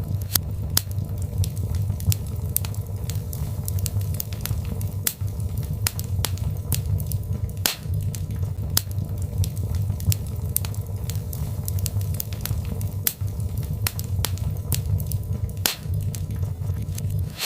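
Birch log fire crackling, with frequent irregular sharp pops and snaps over a steady low rumble of the flames.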